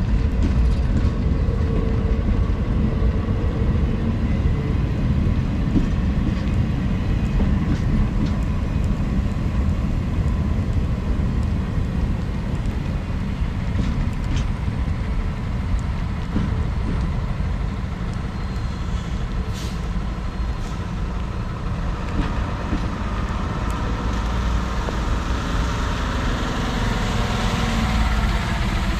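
Norfolk Southern mixed freight train, stack cars and manifest cars, rolling past with a steady low rumble of wheels on rail and faint thin high tones. A hissing noise swells over the last few seconds.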